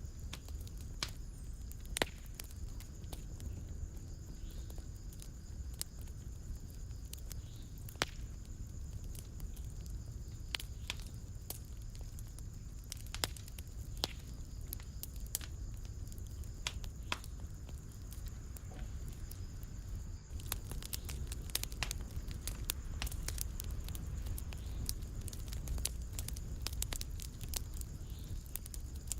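Fire crackling in a fireplace: a steady low rumble of flames with sharp pops and snaps scattered throughout, which come more often after about twenty seconds.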